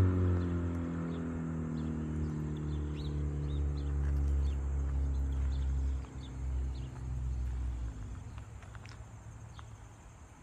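2013 Honda Civic Si's 2.4-litre four-cylinder running through an Invidia N1 catback exhaust with its silencer out, driving off; the exhaust note sinks slowly in pitch and fades into the distance over about eight seconds. Birds chirp faintly throughout.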